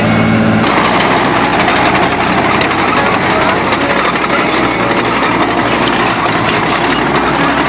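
Diesel farm tractor engine running steadily while ploughing. About half a second in, a steady hum gives way to a rougher, noisier engine sound.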